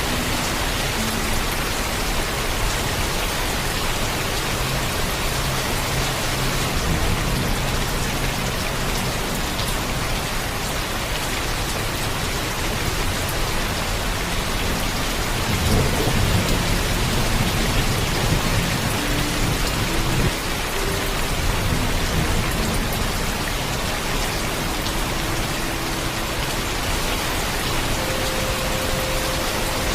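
Heavy, steady rain pouring down, with a low rumble of thunder swelling about halfway through and fading after a few seconds.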